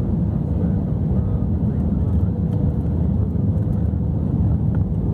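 Steady low rumble of an airliner's engines and airflow heard from inside the passenger cabin during the approach to landing, with a faint steady hum running through it.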